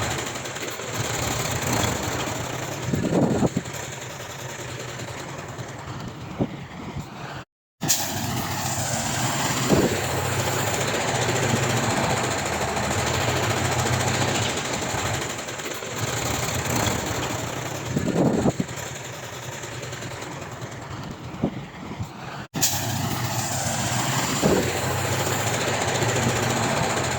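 Heavy diesel earthmoving machinery, a bulldozer and dump trucks, running with a steady low engine drone and a few short metallic clanks. Twice the sound cuts out for a moment.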